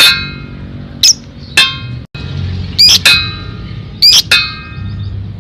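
Lovebird giving a series of short, shrill chirping calls, roughly one or two a second, over a low steady background hum.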